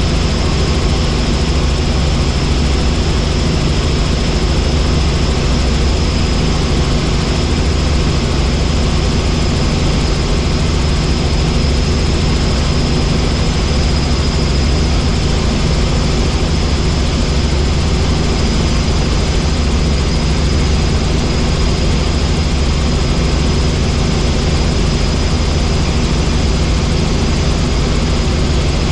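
Helicopter in flight: steady rotor and engine noise with a thin high whine running over it.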